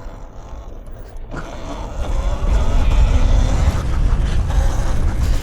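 Dirt bike running under way, its engine mixed with wind rumbling on the microphone; the noise builds about a second and a half in and stays loud.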